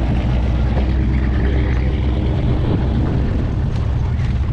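Classic American cars' engines running steadily, a deep, even sound.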